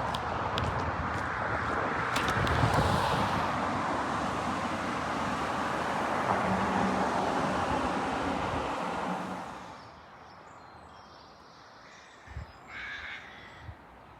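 Road traffic noise from a passing heavy vehicle such as a bus, with engine and tyre noise, steady and then dropping away sharply about ten seconds in. A single short bird call sounds near the end.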